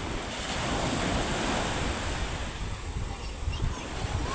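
Waves breaking on the shore of a rough sea stirred up by an approaching typhoon, with wind buffeting the microphone. The rush eases briefly about three seconds in.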